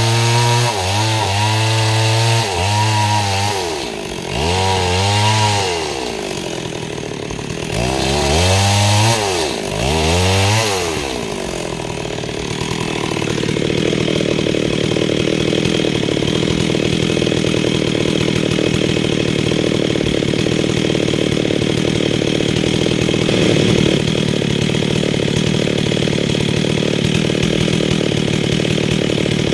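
STIHL MS 382 single-cylinder two-stroke chainsaw revving up and down repeatedly for the first ten seconds or so. From about twelve seconds in it runs steadily under load, sawing lengthwise through mahogany.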